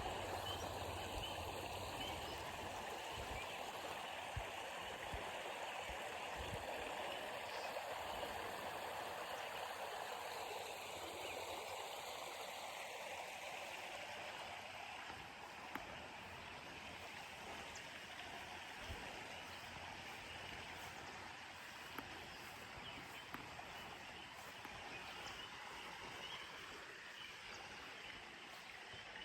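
Water running steadily in a stream or small waterfall, a soft even rush that slowly grows fainter.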